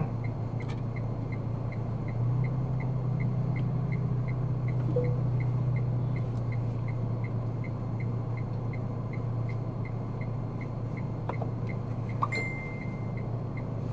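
Steady engine and road hum heard inside a moving car, with an even, rapid ticking about three times a second throughout and a short high beep near the end.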